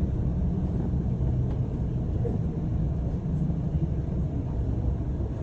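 Steady low rumble of a London bus's engine and road noise, heard from inside the moving bus.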